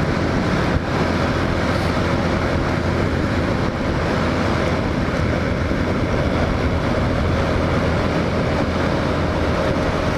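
Hawk 250 single-cylinder dual-sport motorcycle engine running at a steady speed while riding, with wind noise on the microphone.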